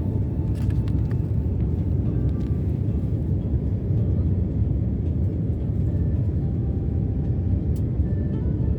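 Steady low rumble of an airliner's cabin noise, engines and airflow heard from a window seat, with a few faint clicks.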